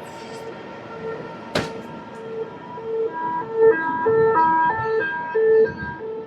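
A tinny electronic tune: a steady beeping pulse about twice a second, with a short stepping melody played over it in the second half, heard over the train's running noise. A single sharp click comes about a second and a half in.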